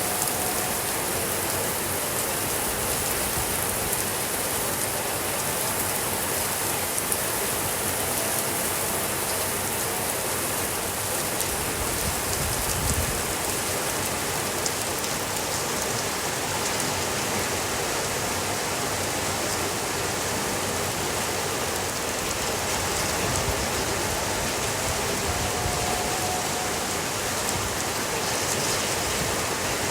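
Heavy rain falling steadily: a dense, even hiss flecked with small sharp ticks of drops.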